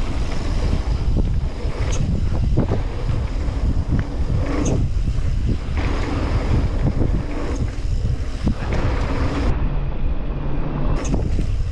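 Wind buffeting a GoPro microphone during a fast mountain-bike run on a dirt jump line, with a steady rumble of tyres on dirt and scattered knocks and rattles of the bike over the terrain.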